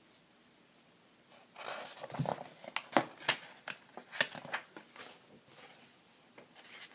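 Pages of a paper picture book being turned and handled: a run of soft rustles and crinkles, starting about a second and a half in.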